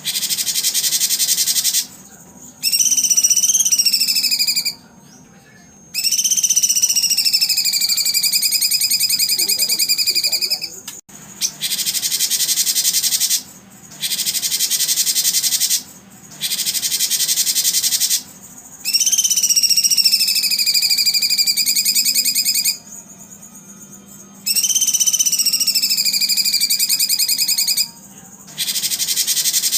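Recorded bird and insect calls: high, rapid buzzing trills in bursts of about two seconds with short breaks, alternating with long whistled notes that fall and then hold steady. The same sequence repeats about halfway through, as a looped recording does.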